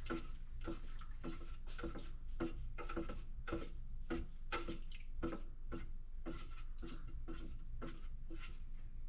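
Paint being stirred in a mixing container, a rhythmic scraping of about two to three strokes a second over a steady low hum.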